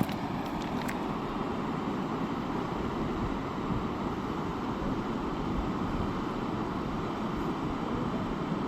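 Steady rushing of a fast mountain river, a low, even roar of water with a few faint clicks near the start.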